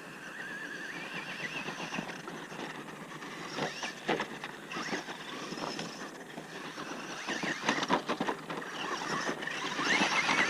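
Traxxas Rustler RC truck's brushless motor whining, its pitch rising and falling with the throttle, over the clatter of the truck bouncing across rough dirt. It gets louder near the end.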